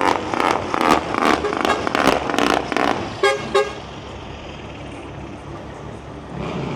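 A vehicle horn tooting twice, short and about a third of a second apart, a little over three seconds in. It follows about three seconds of loud, uneven noise with sharp knocks.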